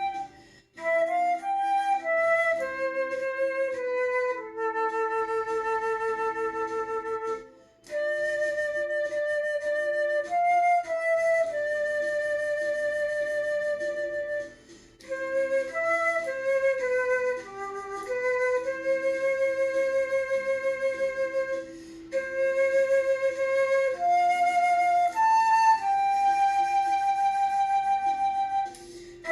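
Flute playing a slow song melody in long held notes joined by short runs, over a quieter lower accompaniment. The melody breaks off briefly between phrases, about 7.5, 14.5 and 22 seconds in.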